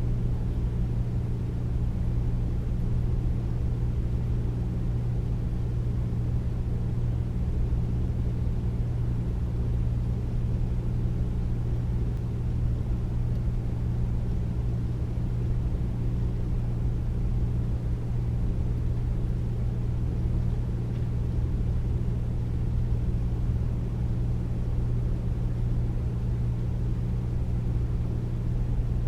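Air conditioner running steadily: a deep, even hum over a low rumble, with no change in pitch or level.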